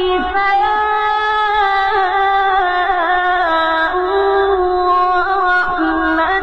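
Melodic Quran recitation: a single voice chanting in long held notes, with small ornamental turns in pitch and no pauses.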